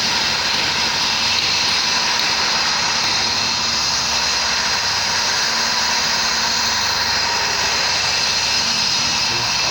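Steady mechanical drone with a few held tones over an even rushing noise, unchanging throughout.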